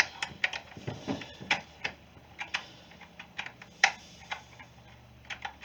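Irregular light clicks and ticks of a small hand wrench working at the cover screws of a string trimmer, metal tapping and slipping on the screw heads.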